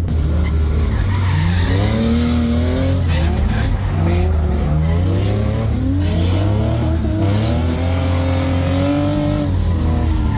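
BMW E36 drift car's engine heard from inside the car, revving up and falling back again and again as the throttle is worked through a drift, with some tyre noise.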